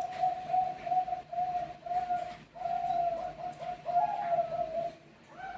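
Zebra dove (perkutut bangkok) singing its cooing song: a rapid string of short, clipped coos, about three or four a second, that breaks off about five seconds in. Another dove starts up just at the end.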